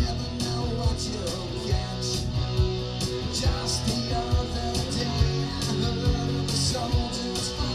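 Rock cover band playing: guitar over a steady drum beat.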